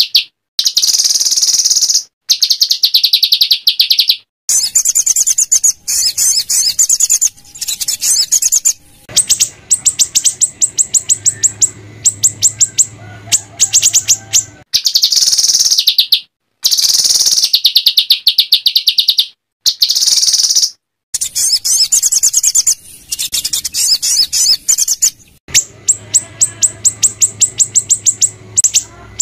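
A small songbird's rough, rapid-fire chattering song ('tembakan kasar'): loud, high-pitched bursts of fast repeated notes, each lasting one to three seconds and cutting off abruptly between bursts, as in an edited, looped masteran training recording.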